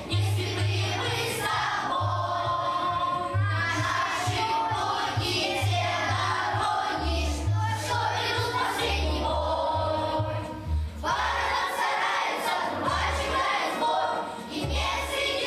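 A class of young schoolchildren singing a song together over an instrumental accompaniment with a bass line that moves in a steady rhythm.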